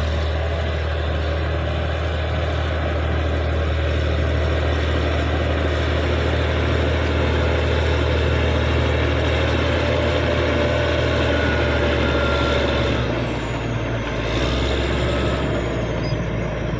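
Caterpillar D6G bulldozer's six-cylinder diesel engine running steadily under load. About thirteen seconds in its deep note drops, then partly comes back a second or so later.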